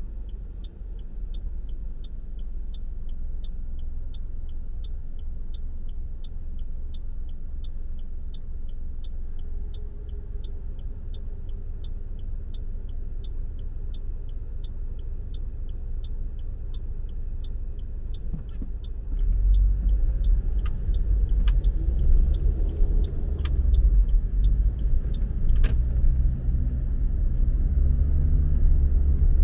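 A car driving, heard from inside: a steady low road and engine rumble with a light regular ticking about twice a second. About two-thirds of the way through the rumble grows louder, with a few sharp clicks, and the ticking fades out.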